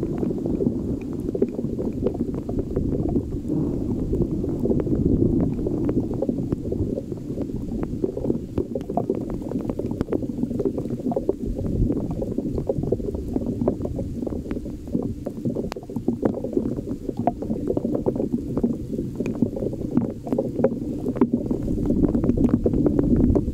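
Heavy thunderstorm rain falling, heard as a dense spatter of small ticks over a steady low rumble of wind on the microphone. It cuts off suddenly at the end.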